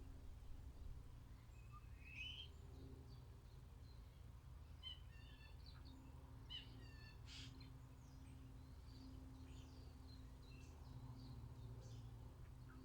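Faint chirps and short trills of small garden songbirds, scattered through, over a steady low background rumble.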